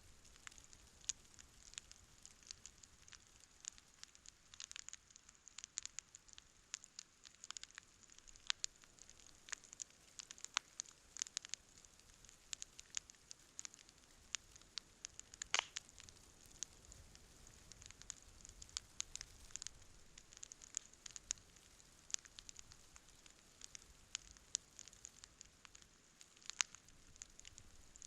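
Wood campfire burning with irregular crackles and pops over a faint hiss, one louder pop about halfway through.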